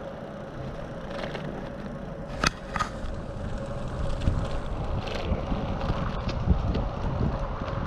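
Bicycle riding over pavement heard from a bike-mounted action camera: tyre and road rumble with rattling over bumps, two sharp clatters about two and a half seconds in, the rumble growing heavier in the second half.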